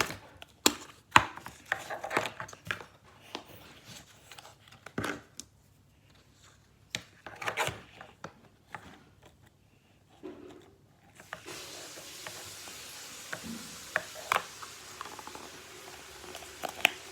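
Plastic containers and slime-making supplies being handled on a table: a run of irregular clicks, taps and knocks with short rubbing and rustling. A steady hiss comes in about eleven seconds in, with a few more clicks over it.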